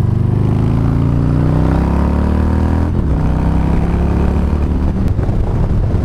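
Harley-Davidson V-twin motorcycle engine accelerating through the gears. Its pitch climbs steadily, drops at a gear change about three seconds in, climbs again, then levels off near the end.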